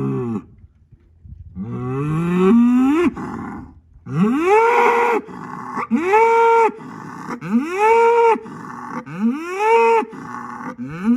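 Bull mooing repeatedly: a series of drawn-out calls, each rising sharply in pitch, holding briefly, then falling away, coming about every one and a half seconds in the second half.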